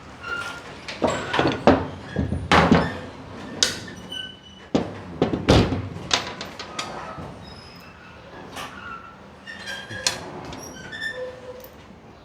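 Irregular metal knocks, thunks and clanks of tools and hardware being handled on a truck bed, busiest in the first half and sparser later, with a few faint squeaks.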